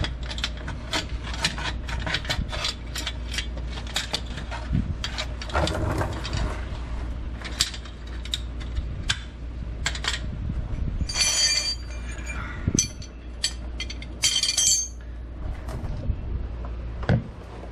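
Hand tools and metal parts being handled: a long string of clicks, clinks and knocks, with two short scraping rustles about eleven and fourteen seconds in.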